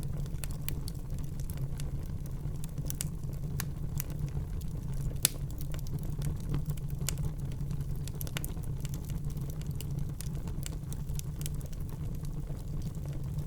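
Wood fire burning in a fireplace: a steady low rumble of the flames with irregular sharp crackles and pops, one louder pop about five seconds in.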